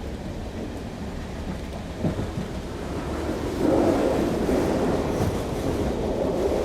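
Low rumble of a diesel train at a railway station, with a single knock about two seconds in; the rumble grows louder a little past halfway.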